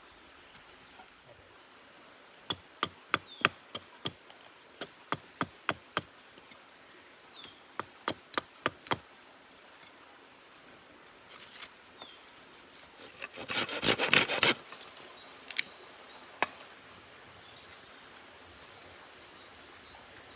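Sharp wooden knocks in runs of about two to three a second, then a dense cluster of cracks and two last single knocks.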